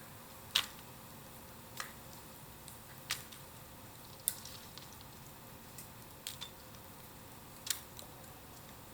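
Bonfire of bamboo crackling: sharp, irregular snaps about once every second or two over a low steady hiss.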